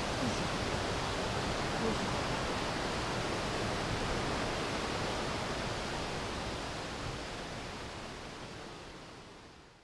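Steady rushing roar of a large waterfall with heavy flow, fading out over the last few seconds.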